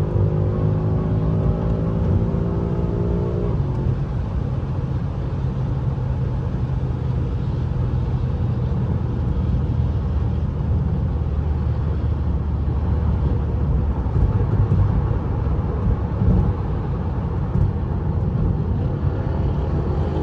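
BMW M5 Competition's twin-turbo V8 pulling under acceleration, its pitch rising for about three and a half seconds, then dropping off abruptly into a steady low drone with road noise as the car cruises.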